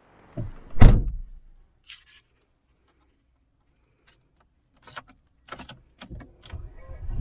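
A heavy thump just under a second in, with a smaller knock just before it, followed later by a few scattered light clicks and rattles.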